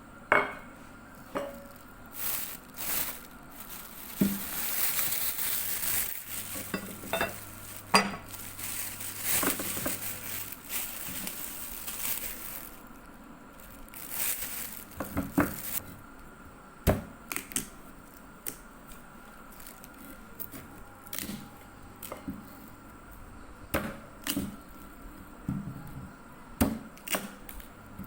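Household handling sounds: dishes and utensils clinking and knocking at irregular moments, with a stretch of steady hissing noise from about four to thirteen seconds in.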